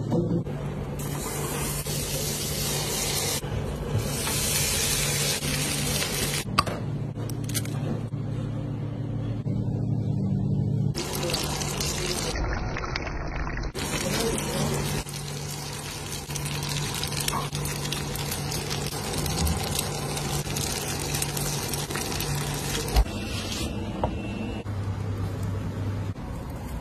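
Food sizzling in a frying pan: a steady hiss that starts and stops abruptly at each edit. Faint background music with steady low notes plays underneath.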